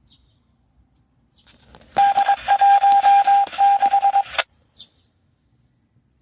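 Emergency radio scanner picking up a short transmission with no voice: about two seconds of hissy radio noise carrying a steady beeping tone that cuts in and out several times, with clicks as the carrier keys up and drops.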